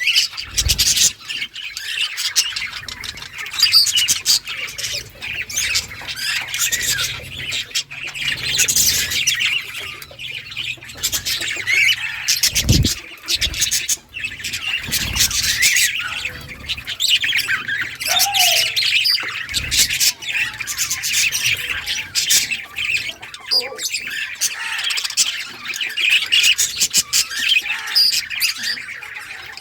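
A group of budgerigars chattering continuously: a dense mix of warbling chirps and harsh squawks, with a few low thumps along the way.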